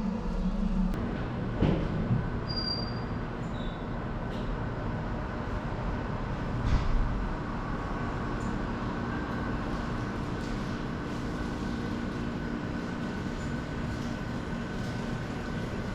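Train running on rails: a steady rumble with a faint held high tone from the wheels. There are a couple of knocks about two seconds in and another about seven seconds in.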